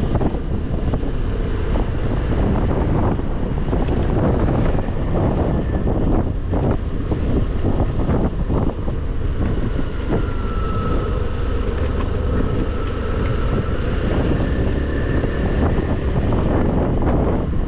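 Wind rushing over a helmet-mounted microphone with the scooter's engine running underneath, while riding at speed.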